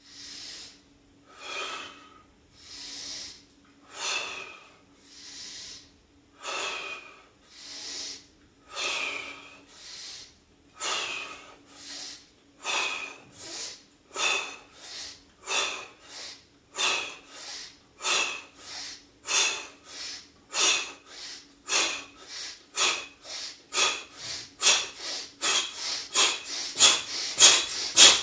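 A man doing a paced breathing exercise, forcefully inhaling through the nose and exhaling through the mouth. The breaths start at about one a second and speed up steadily to about three a second, growing louder as the rate builds.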